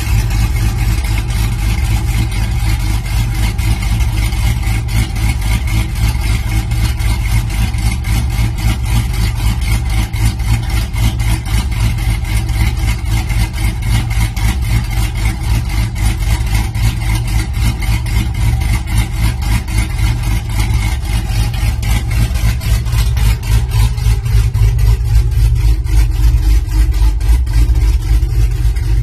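Chevrolet Silverado's 4.8-litre V8 idling through an equal-length exhaust: a steady, rapid, even pulse of exhaust beats. About three-quarters of the way through, the sound becomes slightly deeper and louder.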